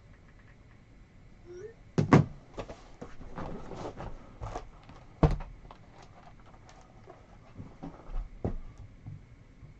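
Handling noises on a table: two sharp knocks about two seconds in, then rustling and lighter clicks, another sharp knock about five seconds in, and a few softer clicks near the end.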